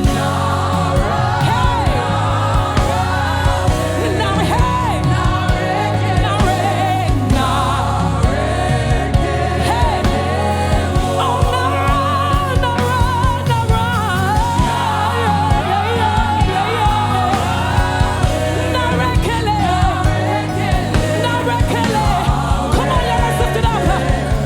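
Live gospel worship music: several voices singing over a band with a steady bass line and drums.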